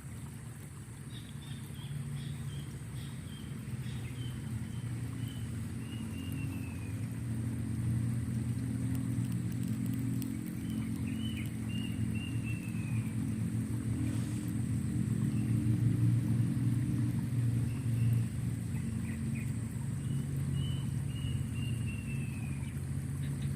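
Songbird singing several phrases of quick chirps that step down in pitch, over a loud low motor-vehicle engine rumble that builds toward the middle and stays on. A thin steady high-pitched tone runs underneath.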